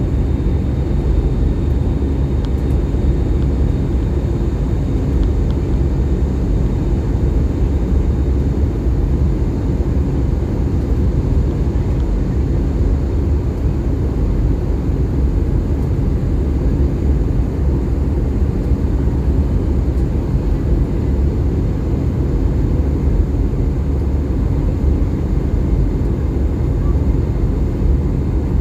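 Steady low roar of an Airbus A320's engines and airflow, heard from inside the passenger cabin in flight.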